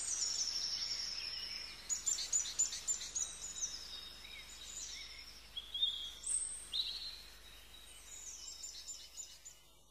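Songbirds singing and calling, a mix of short chirps and quick high trills over a faint steady outdoor hiss, fading out near the end.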